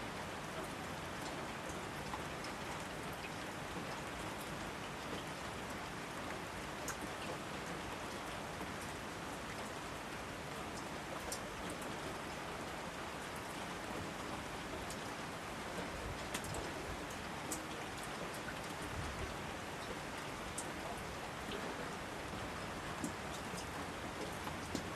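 Steady rainfall, an even hiss with scattered sharp ticks of single drops landing close by.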